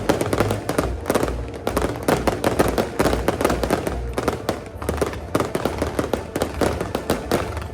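Firecrackers going off in a dense, continuous crackle of rapid bangs, with music underneath.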